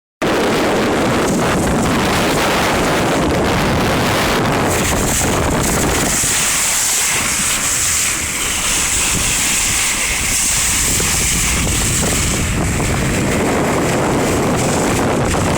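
Strong wind buffeting the microphone over water rushing and splashing past a boat's hull in rough seas. A brighter hiss of spray runs through the middle of the stretch.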